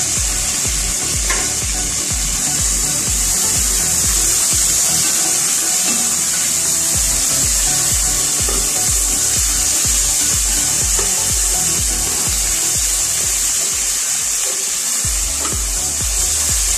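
Chopped tomatoes and onions frying in a pan with a steady sizzle, and a wooden spatula scraping and rubbing against the pan as they are stirred, over background music with a steady beat.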